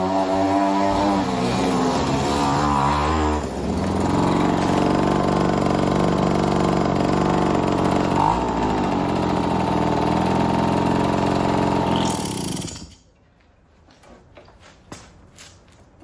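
A restored moped's small engine running, its pitch wavering over the first few seconds and then holding steady. It stops abruptly near the end, leaving a few faint ticks.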